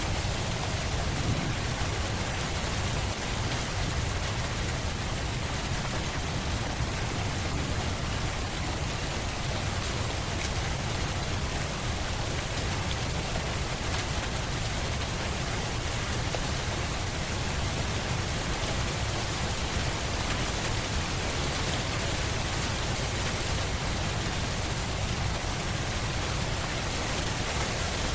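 Steady rain falling on a surface, with a constant low rumble beneath the hiss.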